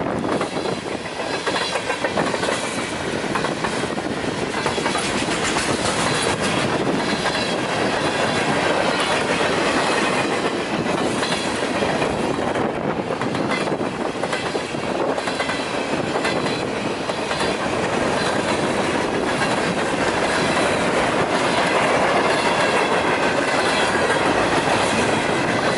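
CPR 241, a Canadian Pacific freight train, rolling past at track level: a steady clatter of freight cars, with wheels clicking over rail joints and a faint high ringing from the wheels.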